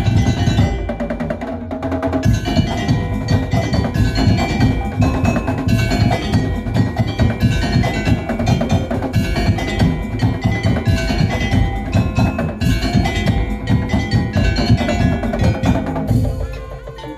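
Madurese tong-tong (ul daul) percussion ensemble playing loudly: fast, dense drumming and wooden knocking strokes under ringing metal tones. The playing eases off about a second before the end.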